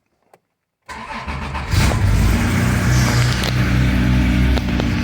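Cold start of a 1985 Porsche 911's air-cooled 3.4-litre Motronic flat-six: about a second in the starter cranks briefly, the engine catches under a second later and then runs steadily.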